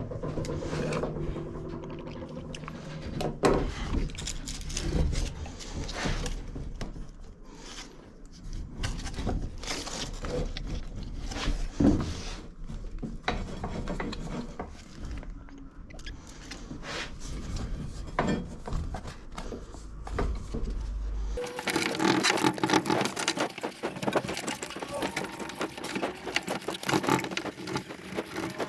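Hands-on repair work on a lawnmower's front height adjuster: scattered clicks, knocks and scrapes of parts being handled. A low hum runs underneath and cuts off suddenly about three quarters of the way through.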